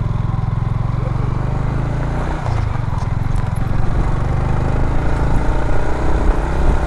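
Yamaha motorcycle engine running steadily under way on a dirt road, with a brief drop in level and pitch about two and a half seconds in.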